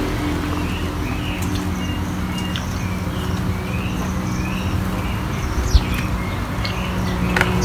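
Small birds chirping in short repeated calls over a steady low mechanical hum, with a single sharp click about three-quarters of the way through.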